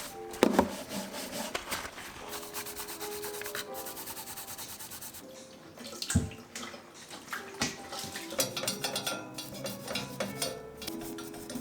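Hand-scrubbing a kitchen surface during cleaning: repeated rasping rub strokes, with a couple of sharper knocks about half a second in and about six seconds in, over soft background music.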